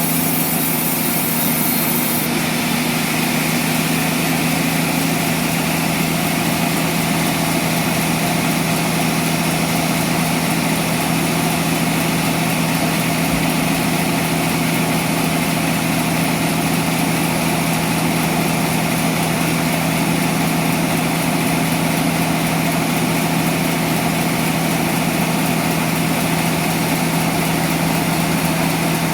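Sawmill machinery running with a steady engine-like hum, with a brief high hiss in the first two seconds.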